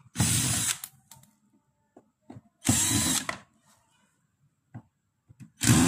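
Electric drill-driver run in three short bursts about two and a half seconds apart, backing out screws to take the refrigerator apart, with small clicks of handling in between.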